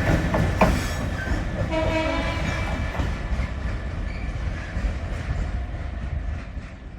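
A train running past and fading away, with sharp wheel clicks in the first second and a short tone sounding about two seconds in.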